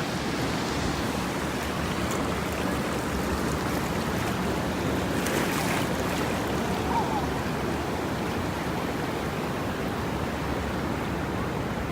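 Ocean surf on a beach: a steady rush of waves breaking and washing up the sand.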